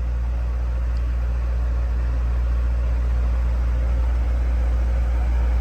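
Steady low engine hum from the command truck's onboard Kohler generator running, even and unchanging throughout.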